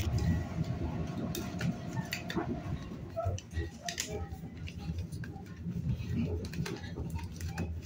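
Commuter train running, heard from inside the car: a steady low rumble with irregular sharp clicks and rattles, and a faint steady hum that stops about three seconds in.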